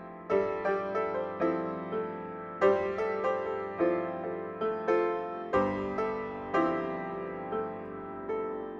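Solo piano piece on an 1892 Chickering 7'8" grand piano, played at a slow, gentle pace. Single notes and chords are struck about once or twice a second and ring out as they decay, and the last chord is left to fade near the end.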